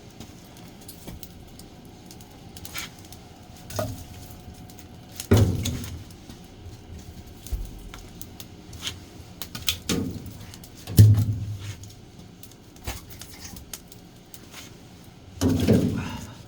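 Large firewood logs being loaded into a wood-fired boiler's firebox: a series of irregular wooden thuds and knocks, the heaviest about halfway through and near the end.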